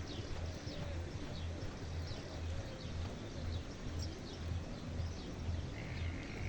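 Small birds chirping in many short high calls, over a low even thumping pulse about twice a second.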